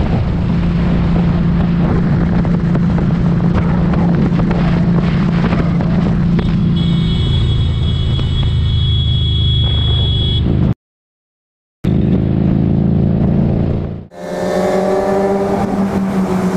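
Motorcycle engine running at a steady pitch under road and wind noise, heard from the rider's own camera. It stops dead for about a second near eleven seconds in, then runs again, and changes sharply about fourteen seconds in.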